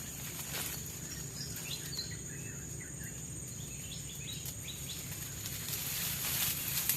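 Rainforest ambience: a steady high-pitched insect drone, with a bird calling in a run of short chirping notes in the middle. A few brief crackles come near the start and again near the end.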